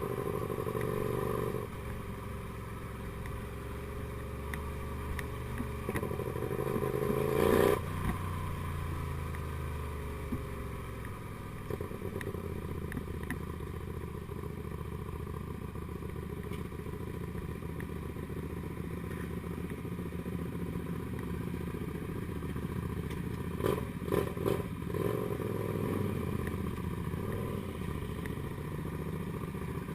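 Comet GTR250 motorcycle's V-twin engine running under way. It revs up to a peak about eight seconds in, cuts off sharply as the throttle closes or a gear changes, then runs on steadily, with a few short clatters near the end.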